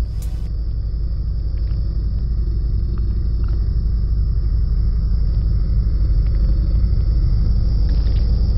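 Music cuts off about half a second in, leaving a steady, loud low rumble with a few faint clicks.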